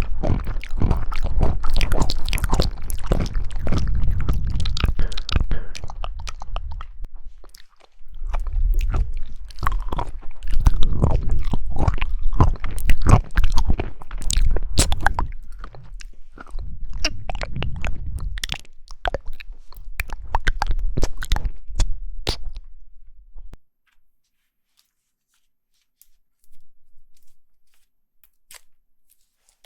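Close-miked chewing and biting of jelly: dense crunching and wet clicking with a low rumble, in runs broken by short pauses, stopping about three quarters of the way through; after that only a few faint mouth sounds.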